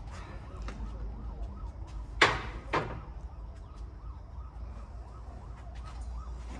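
Two sharp metallic knocks about half a second apart, from tools and parts being handled while an engine mounting is unbolted. Light clicks run throughout, over a steady low hum and a faint wavering tone.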